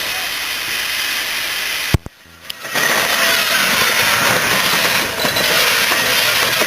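Steam locomotive hissing steam, cut off abruptly with a click about two seconds in. After a brief lull, a loud, steady, noisy running sound starts up again.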